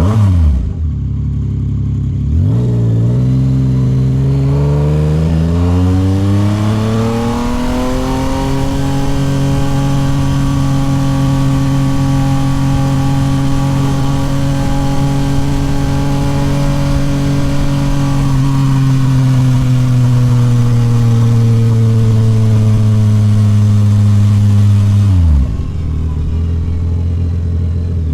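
Yamaha MT-09 SP's 890 cc inline three-cylinder engine through a Toce full exhaust, under way: two quick upshifts in the first couple of seconds, then the engine note rises steadily as it pulls, holds a steady cruise for about ten seconds, eases slightly, and drops with another upshift near the end.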